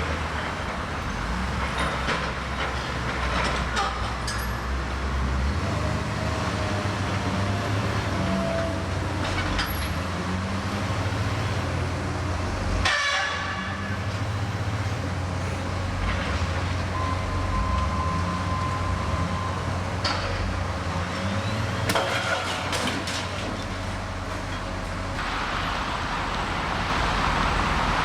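Demolition machinery engine running steadily, with scattered clanks and a brief harsh metal screech about halfway through.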